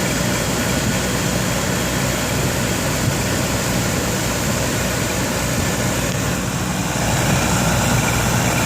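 Air-conditioner condensing unit running steadily, the compressor humming under the spinning condenser fan. The fan motor has worn bearings but is running smoothly at this moment.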